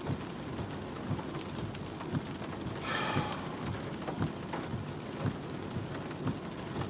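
Heavy monsoon rain drumming on a car, heard from inside the car, with irregular sharp drop taps over a steady patter. About three seconds in there is one brief louder swish.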